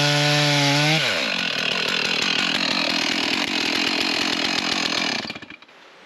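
Chainsaw running at full throttle with a steady high pitch. About a second in, the tone breaks up into a rough, ragged sound as the chain cuts into a fallen tree, bucking it. After about four seconds of cutting, the saw's sound drops away sharply.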